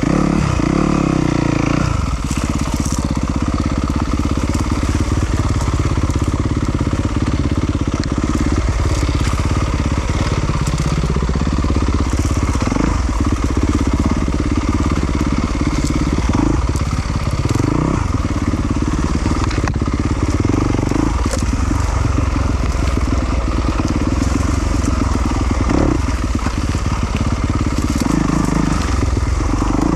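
2020 Yamaha YZ250FX single-cylinder four-stroke dirt bike engine running under load, its revs rising and falling continually with the throttle as the bike is ridden over rough enduro terrain.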